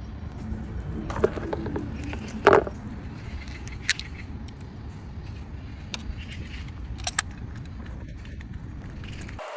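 Car engine running with a steady low rumble, with a few metallic clinks and knocks over it, the loudest about two and a half seconds in.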